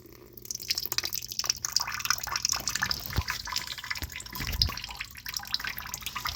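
Water trickling and splashing as it drains out of a pulled hose on a Carrier 58MCB080 furnace. The water has built up in the system because the drain line is blocked.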